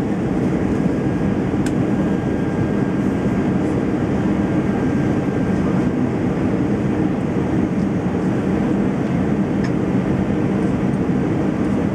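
Steady cabin noise of an Airbus A320-200 in flight: the engines and rushing air make an even, unbroken low rumble and hiss. A single faint click comes about two seconds in.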